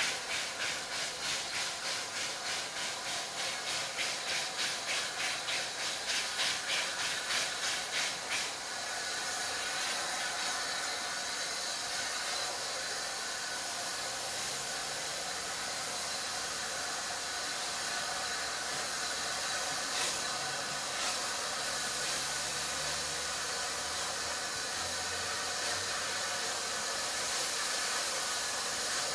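West Country class steam locomotive 34046 Braunton arriving slowly. Its exhaust beats come at about two and a half a second for the first eight seconds or so. Then the beats stop and a steady hiss of steam carries on.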